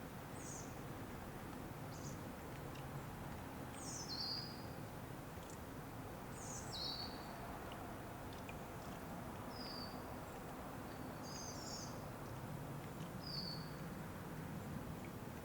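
Wild birds calling: short high chirps, several falling in pitch, every second or two, over a steady low outdoor background rush.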